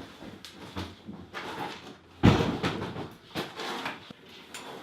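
Knocks, scrapes and rustling of things being handled, with one heavy thump a little over two seconds in.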